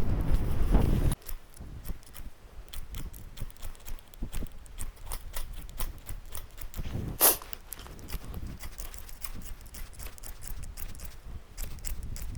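Scattered sharp clicks and small knocks, with one louder scraping strike about seven seconds in, and a low rumble in the first second.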